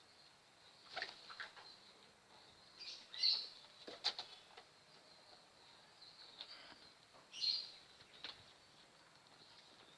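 Pigeons at feed: two short high chirps, with scattered sharp taps and wing flutters in between.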